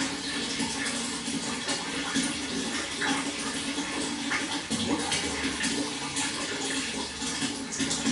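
Water flowing steadily, with many small splashes and trickles through it.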